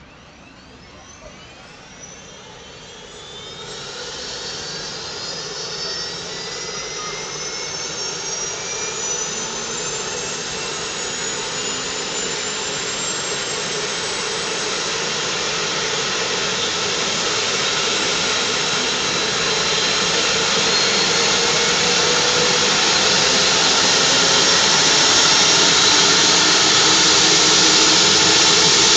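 Medivac helicopter's turbine engine spooling up: a whine that rises in pitch over the first dozen seconds or so while the sound grows steadily louder, settling into a steady high-pitched rush.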